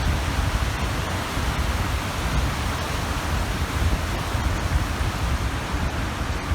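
Waves washing steadily onto the shore of a large reservoir, with wind rumbling on the microphone.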